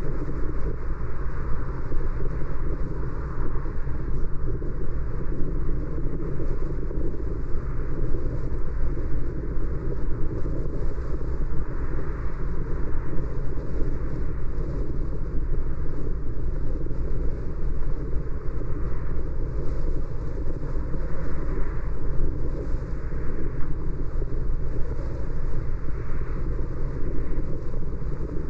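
Steady road noise of a car driving: a continuous rumble of tyres and engine with some wind noise.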